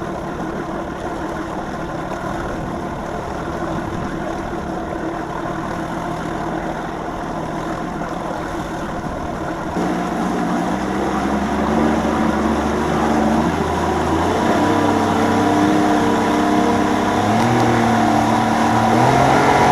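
Vehicle engine running steadily with road or motor noise. About halfway through, a deeper drone comes in and the engine's pitch shifts in steps and rises.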